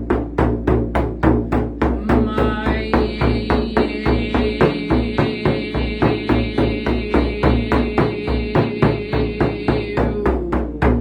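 Steady, even drumbeat of about three to four deep beats a second, as in meditation drumming. A layer of sustained higher tones joins about two seconds in and drops away near the end.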